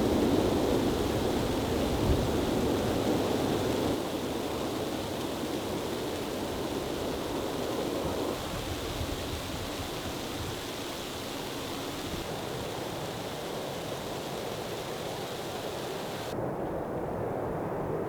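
Steady rushing wind of a snowstorm, an even low roar with no distinct events, louder for the first few seconds and then dropping and shifting in level a few times.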